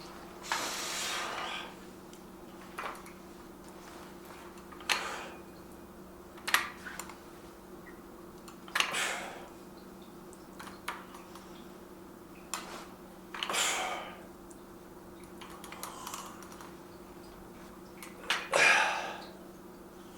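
Hard breaths, a hiss every few seconds, from a man lifting dumbbells through alternating hammer curls, with light metal clicks from the dumbbells between them. A steady low hum runs under it all.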